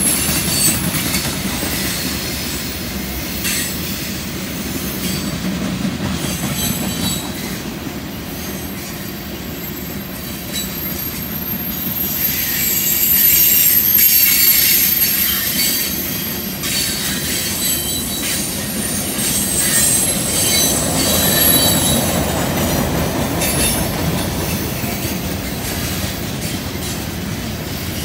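Freight train cars rolling past on a curve: a steady rumble of steel wheels on rail with high-pitched wheel squeal from the curve, and scattered clicks of wheels over rail joints. It grows loudest about halfway through.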